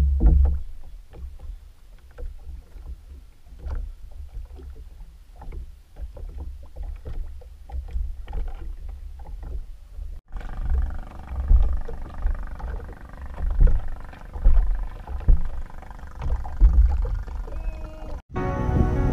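Wind buffeting the microphone on a small wooden boat, a gusty low rumble, with water slapping the hull and frequent small clicks and knocks as a handline is hauled in. Music comes in near the end.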